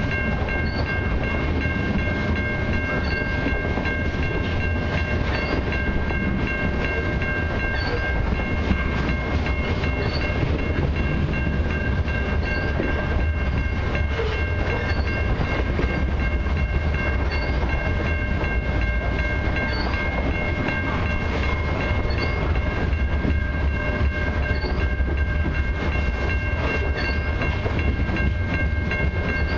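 Covered hopper cars of a long freight train rolling past a level crossing: a steady, even rumble of wheels on the rails, with a steady high ringing tone above it.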